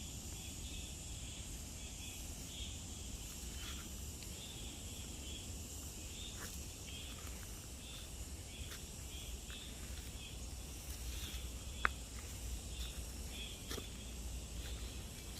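Outdoor ambience of chirping insects: short high chirps repeating over a steady high hiss, with a low rumble underneath and a sharp click about twelve seconds in.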